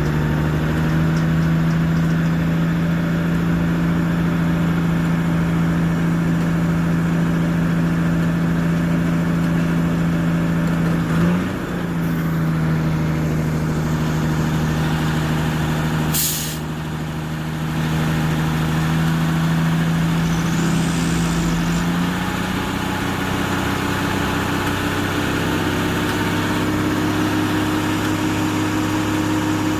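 Tow truck engine running steadily while it drives a slow winch pull, its note changing about 22 seconds in. A brief sharp hiss of air comes about 16 seconds in.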